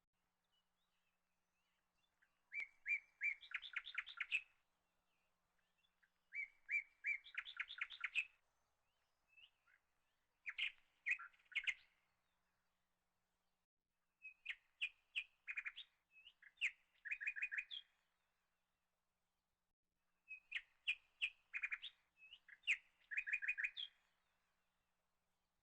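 A songbird singing five short phrases of sharp chirps and quick trills, each about two seconds long, with pauses between them.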